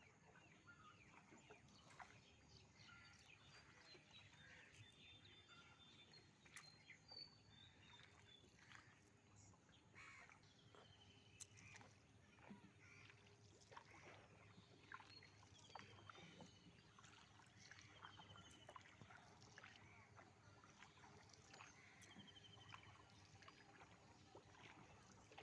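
Near silence: faint water sounds of a small boat on a lake, with scattered soft clicks and a few faint bird chirps every few seconds.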